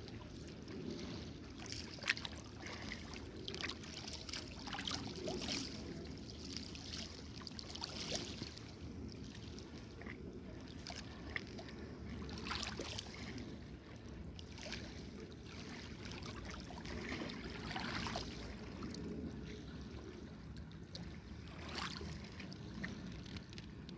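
Water lapping, with irregular small splashes over a steady low rumble, and one sharper knock about two seconds in.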